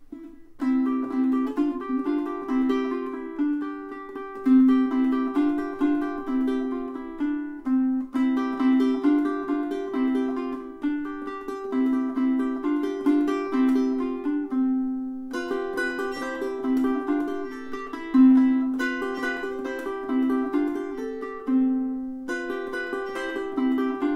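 aNueNue UT5K solid koa tenor ukulele played solo, a plucked melody with chords, pausing briefly twice.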